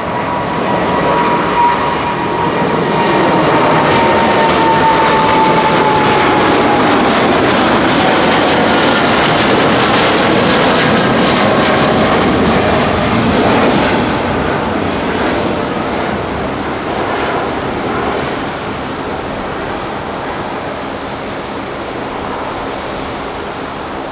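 Boeing 787-8 airliner's GEnx turbofan engines at takeoff thrust: a loud jet roar that swells over the first few seconds, with a whining tone falling in pitch as the plane goes by, then fading slowly as it climbs away.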